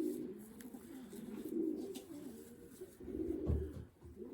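Racing pigeons cooing, several low coos overlapping without pause, with a soft low bump about three and a half seconds in.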